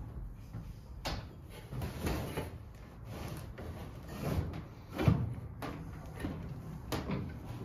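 Irregular clunks, knocks and scraping from hands-on work inside a van's metal body, with about five distinct knocks; the loudest comes about five seconds in.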